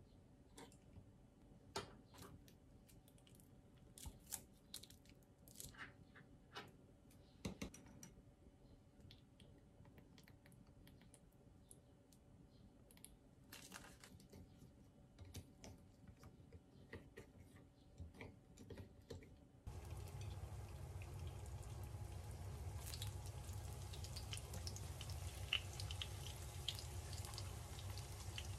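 Faint, scattered clicks of a metal spoon against a ceramic bowl while sauce is mixed. About two-thirds of the way in, these give way to a steady sizzle of skewered rice cakes and sausages frying in oil in a pan, with a low hum beneath.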